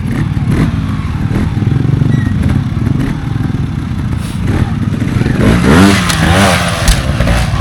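Trials motorcycle engine running low, then revved in a series of quick throttle blips from about five and a half seconds in, with a sharp knock just before the end.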